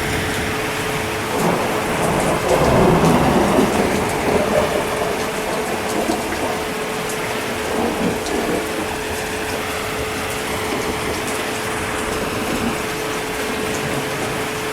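Steady heavy rain, with a rumble of thunder that swells about a second and a half in and fades out a few seconds later.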